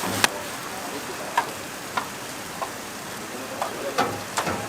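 Food on a street-vendor's toast griddle sizzling steadily, with sharp clicks and taps of utensils scattered throughout, the loudest about a quarter second in.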